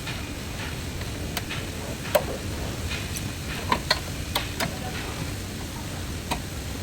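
Scattered light clicks and knocks at irregular intervals over a steady low background rumble, the sharpest a little over two seconds in and several more bunched together near the middle.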